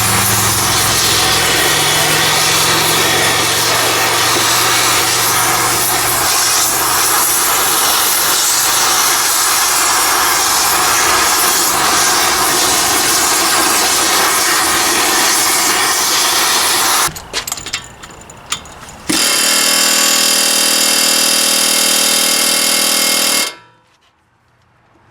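A loud power tool running steadily on the truck's front-axle kingpin work. The sound breaks off briefly just before the last third, comes back as a steadier, more even tone, then cuts off suddenly near the end.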